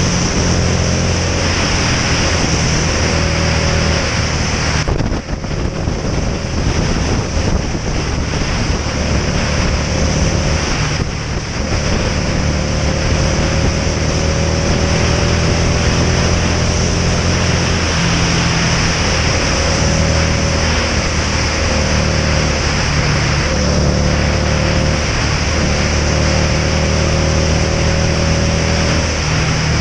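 Motorcycle engine running under way, with steady wind rush on the camera microphone. The engine note drops briefly about five seconds in and again around eleven seconds in, then picks up.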